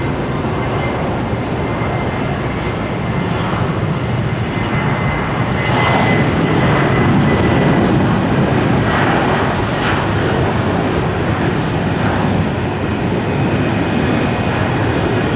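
Jet airliner's engines at takeoff thrust: a steady rushing noise with a faint high whine, growing a little louder midway through.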